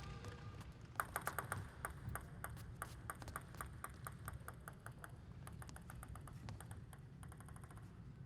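Table tennis ball striking the table and bats in a long series of quick, sharp pings, irregularly spaced, with a few rapid clusters.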